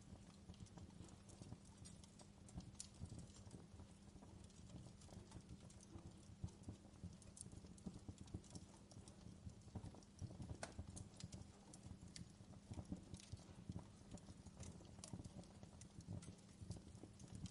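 Fireplace fire crackling faintly: irregular small pops and snaps over a steady low rumble.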